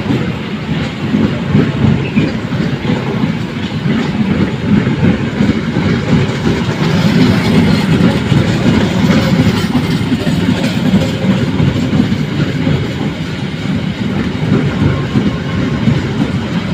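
Train running along the track: a steady, loud rumble with the clickety-clack of the wheels on the rails.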